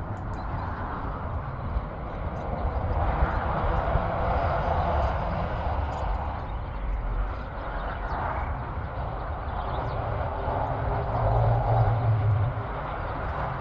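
Road traffic passing by: a steady rumble and hiss that swells and fades several times as vehicles go past.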